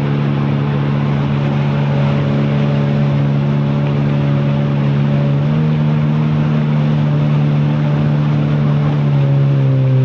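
Jet ski engine running at speed with a steady hum over the rush of wind and water; its pitch steps up about halfway through and eases slightly near the end.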